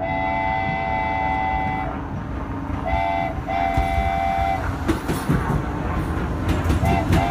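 Subway train arriving at an elevated platform and sounding its horn: a long blast of about two seconds, then a short and a longer one, then a short one and another long blast near the end, all over the steady rumble of the train. From about five seconds in, the wheels clatter on the rails.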